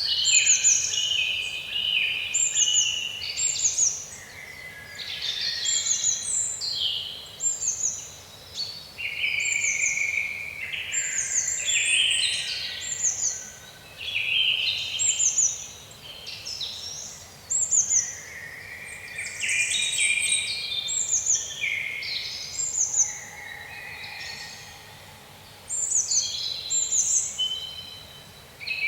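Songbirds singing in an unbroken run of chirping phrases, with short, high, falling notes repeated throughout.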